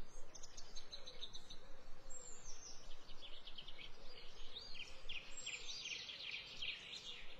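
Faint chirping of small birds outdoors: quick trills and short falling whistled notes that come and go.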